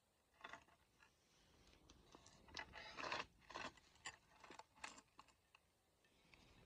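Quiet crackling of a wood fire: irregular snaps and pops, busiest from about half a second to five seconds in, over a faint low hiss.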